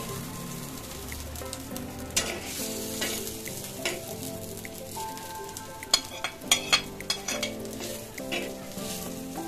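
Garlic cloves and green chillies sizzling in hot oil in a black iron karahi, stirred with a metal spatula that scrapes and clicks against the pan. There is a quick run of sharp clicks about six seconds in.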